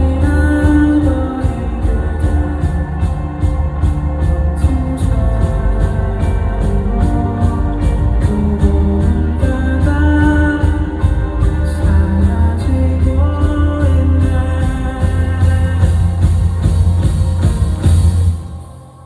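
Live band music with a steady drum beat, heavy bass and a male voice singing over it; the music drops away abruptly near the end.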